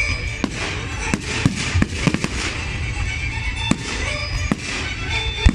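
Fireworks display: an irregular string of sharp bangs from aerial shells bursting overhead, about two a second, the loudest near the end, over a steady low rumble.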